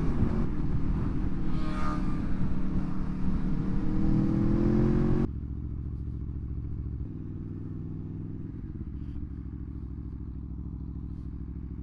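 Aprilia Tuono motorcycle engine pulling hard, its note rising steadily, over a rushing noise. About five seconds in the rushing stops abruptly, leaving a quieter, steady engine note.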